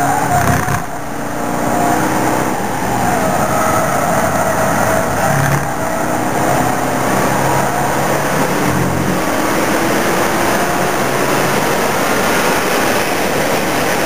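Mercedes CLK DTM's V8 engine heard from inside the cabin, running hard on a fast lap. The engine note climbs and steps with gear changes, with a brief drop in level about a second in and further shifts around six and nine seconds in.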